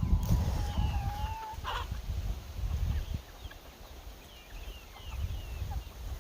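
Chickens clucking, with scattered short, high, falling peeps, over a steady low wind rumble on the microphone.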